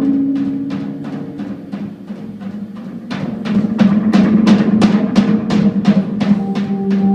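Live instrumental jazz-rock band playing: the drum kit keeps a steady beat of about four strokes a second over held low notes. The music dips quieter about two seconds in and swells back up from about three seconds.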